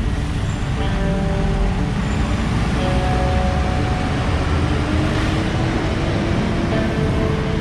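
Steady road traffic noise, the low rumble and tyre noise of vehicles moving along a busy road, with light background music over it.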